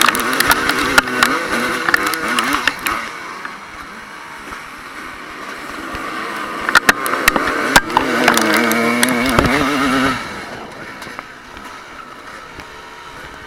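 Motocross motorcycle engines revving hard, their pitch rising and falling with the throttle, with sharp clicks and knocks. The sound is loud for about the first three seconds, drops back, then swells again for a few seconds near the two-thirds mark before easing off.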